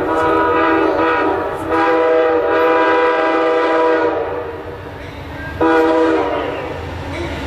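Locomotive's multi-chime air horn sounding two long blasts followed by a short one, over the low rumble of the passing train.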